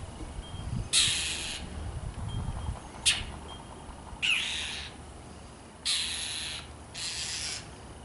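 A bird giving harsh, rasping scolding calls at a cat: four calls of about half a second each, the second with a falling sweep, and one short sharp note between the first two. These are the calls of a bird mobbing a cat.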